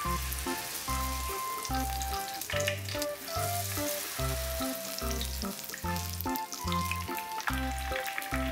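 Batter-coated shiso leaves deep-frying in a shallow pan of hot cooking oil, with a steady sizzle and crackle. Background music with a regular bass beat plays under it.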